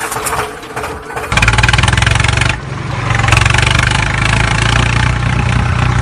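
Tractor engine starting up and running steadily with a fast, even chug; it comes in loudly about a second in.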